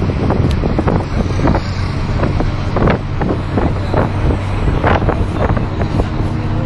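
Roadside traffic: a heavy vehicle's engine running with a steady low hum, overlaid with many irregular clicks and knocks.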